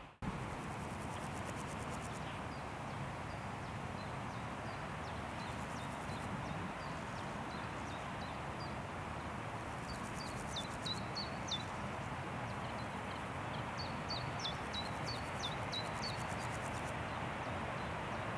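Wind rushing steadily through forest trees, with a small songbird repeating short, high, downward-slurred chirps, busiest in two runs about ten and fifteen seconds in.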